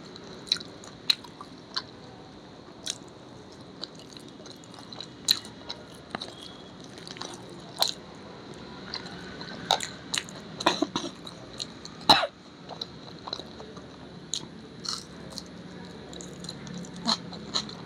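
Close-miked eating: chewing and mouth noises with scattered sharp clicks, the loudest about twelve seconds in.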